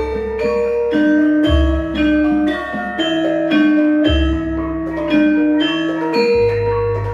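Javanese gamelan ensemble playing a gending: bronze metallophones strike ringing notes in a steady pulse, with deep low strokes sounding three times.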